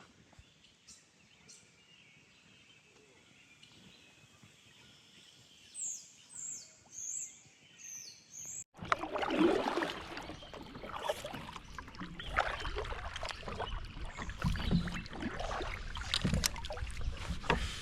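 Four short, high bird chirps, then a sudden switch to louder rough wind noise buffeting the microphone on a kayak, with scattered knocks and water sounds.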